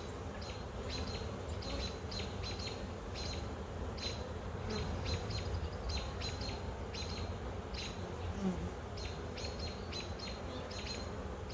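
Honey bees buzzing as a steady hum around an opened hive, with many short high chirps repeating over it. The colony is agitated, which the beekeeper takes as a sign it might not have a queen.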